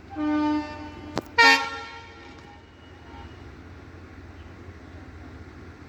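Indian Railways locomotive horn sounding twice: a short blast, a sharp click, then a second, louder blast that fades out. A steady low rumble continues after it.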